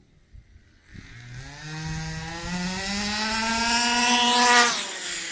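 Rovan Baja 45cc two-stroke engine of a 1/5-scale RC car revving up from about a second in, its pitch climbing steadily for over three seconds, then dropping sharply as the throttle is released near the end. The engine is still on its stock, untuned settings.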